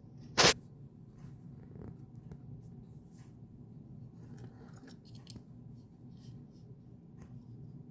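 Hands handling a small object and its packaging: one short, loud, sharp scrape or snap about half a second in, then faint scattered clicks and rustles.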